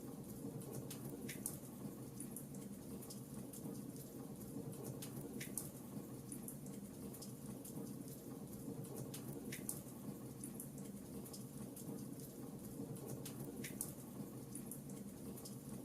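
Wood fire in a fireplace crackling, with irregular small snaps and a louder pop every few seconds over a steady low rumble.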